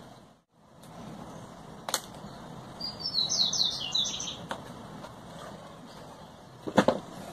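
A quick run of high chirps from a small bird, lasting about a second, about three seconds in. A few sharp clicks near the end come from small hand tools working on the plastic body of a camera drone.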